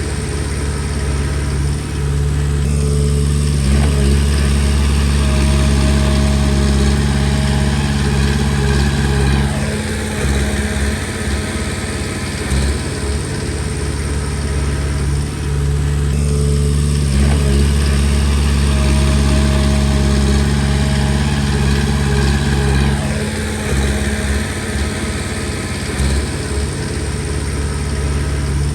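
Komatsu D20P bulldozer's diesel engine running under a working load. Its note rises and falls twice, in cycles of roughly thirteen seconds.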